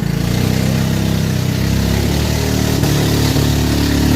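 Small river boat's motor running hard, its revs shifting up and down, as the boat is driven up through a shallow rapid.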